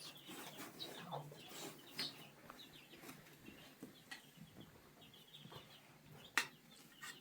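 Chickens clucking faintly with scattered small clicks, and one sharp knock about six seconds in.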